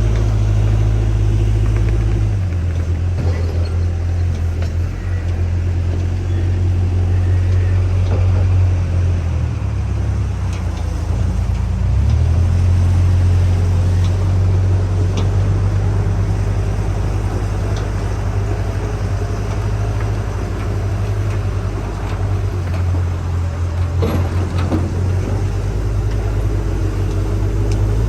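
Diesel engine of a JCB backhoe loader running under varying load, its low steady note shifting several times as the machine works.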